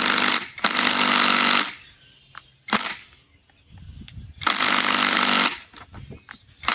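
Bauer compact cordless impact wrench hammering in three trigger pulls of about a second each, with short clicks in between.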